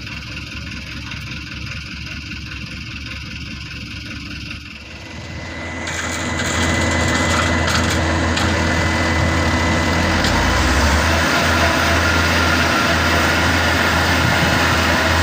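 Diesel engine running steadily, then revving up about five seconds in and running hard under load. This is typical of a machine straining to tow a truck bogged in a muddy field.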